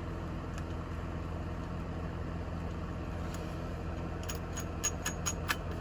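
A steady low hum, and from about four seconds in a quick run of about seven light clicks: the nitro buggy's spur gear being rocked against the engine's small pinion cog, its teeth knocking across the small play between the two gears. That play is the slight backlash a correct gear mesh should have.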